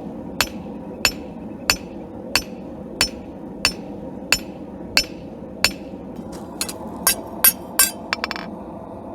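Blacksmith's hammer striking hot steel on an anvil at a steady pace, about three blows every two seconds, then a quicker run of strikes near the end, over a steady rushing noise.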